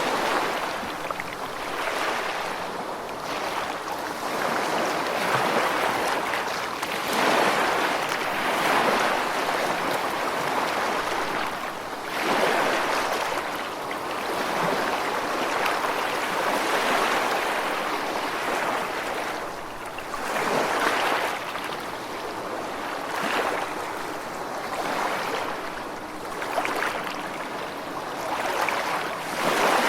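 Ocean waves washing on a shore: a continuous rushing that swells and ebbs every few seconds.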